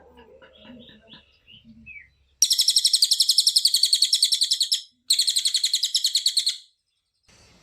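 A cililin songbird sings two loud, high-pitched trills of rapid, tightly packed notes. The first comes about two and a half seconds in and lasts about two and a half seconds; the second follows after a brief gap and is a little shorter.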